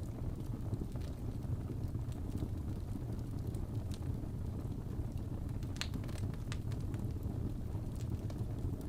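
Crackling fireplace: a steady low rumble of burning with sharp pops and crackles at irregular moments.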